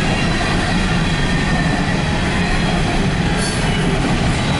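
Empty coal hopper cars of a CSX freight train rolling past close by: a steady, loud noise of steel wheels on rail.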